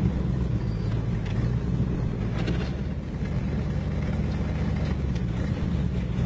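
Big-block Chevy 454 V8 in a Toyota pickup running at a steady cruise, a low, even drone with road and wind noise and no revving.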